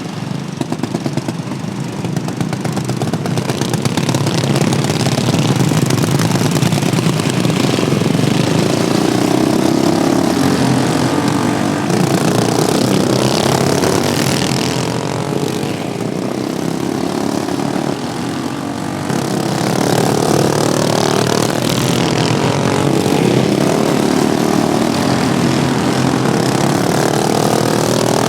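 Engines of several modified Wheel Horse racing lawnmowers running together, their pitch rising and falling as they rev up and ease off. The sound grows louder about four seconds in.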